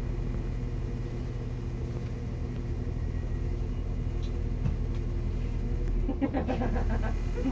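Steady low drone of a CAF Class 195 diesel multiple unit heard inside the passenger saloon, with several fixed low tones from its underfloor diesel engine. Voices start talking about six seconds in.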